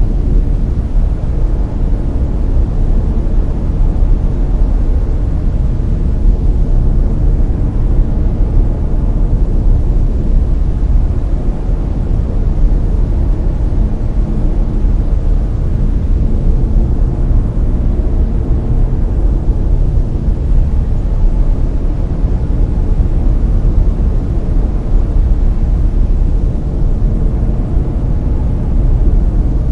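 Layered brown noise: a deep, steady rumbling hiss, heaviest in the bass and soft in the treble, holding even throughout.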